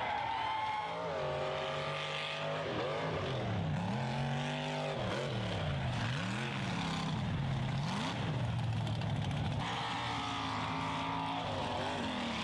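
Mud truck engine revving hard, its pitch rising and falling over and over as the throttle is worked.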